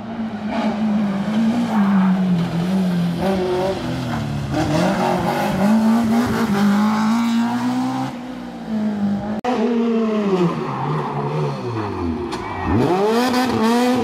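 Rally car engine revving hard, its pitch rising and falling with throttle and gear changes. After an abrupt cut about two-thirds of the way in, the note drops low and then climbs again as the car accelerates away.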